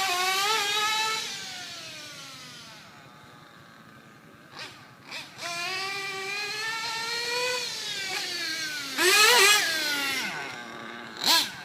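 Trackstar .21 nitro engine in an RC car running at high revs with a high, buzzing whine. Its pitch and level fall as it drives away until it is faint, then rise again as it comes back. It is loudest as it passes close about nine seconds in, with a sharp swoop in pitch, then it fades off.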